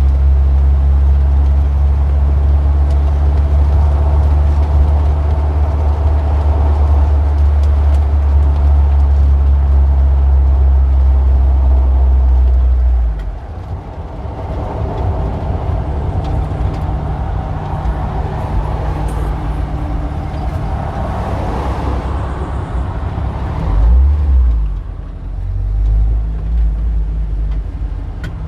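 Street traffic: a vehicle engine idling close by with a steady low hum, which drops away about halfway through. Then cars pass, one swelling up and fading off near the two-thirds mark, with two brief low engine surges after it.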